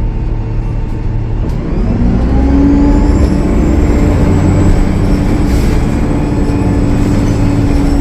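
Cummins ISL9 diesel engine of a Gillig Low Floor transit bus pulling away. The engine note rises and grows louder about two seconds in, with a faint high turbocharger whistle above it.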